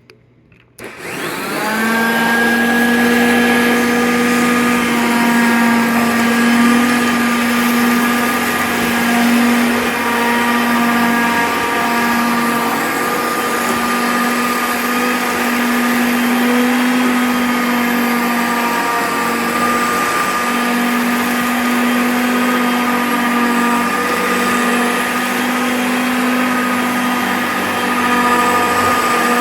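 Hoover Concept 2 upright vacuum cleaner switched on about a second in, its motor whining up to speed, then running steadily with a hum and whine while it sucks up plastic Christmas tree needles.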